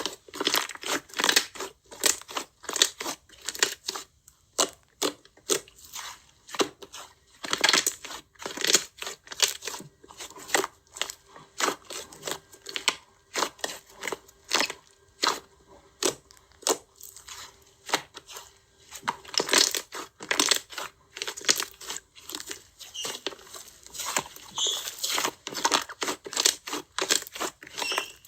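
Slime being squeezed, pressed and stretched by hand, giving an irregular run of crackling, popping clicks, a couple or more a second.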